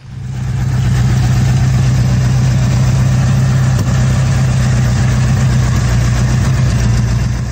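Car engine idling steadily and loudly, starting abruptly and fading out near the end.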